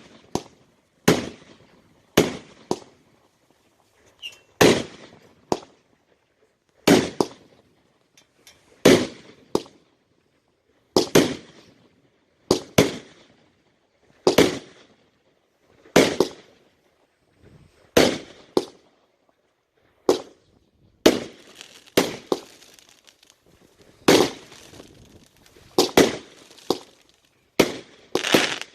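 Consumer fireworks going off: a string of sharp bangs, each with a short fading tail, about one to two seconds apart and often in close pairs, coming faster near the end.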